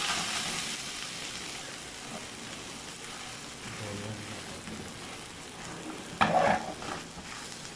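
Filled sandwich bread sizzling in a spoonful of hot oil in a nonstick frying pan: the sizzle is loudest as the bread goes in, then settles to a steady fry. A brief louder noise comes about six seconds in.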